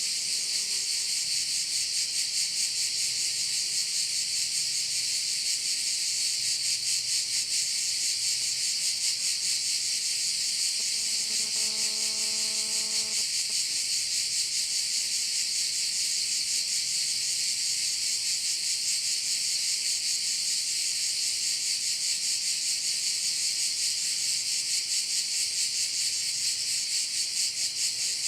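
Dense chorus of cicadas, a steady high, fast-pulsing buzz. About eleven seconds in, a brief low pitched tone sounds under it for about two seconds.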